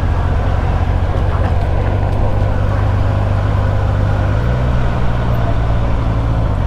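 Motorcycle engine running at a steady road speed while riding, its note stepping up a little about four seconds in.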